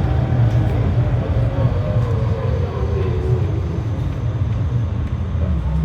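GT-series low-floor tram running, heard from inside the car: a steady low rumble of wheels and running gear, with a faint motor whine that falls slowly in pitch during the first few seconds as the tram slows.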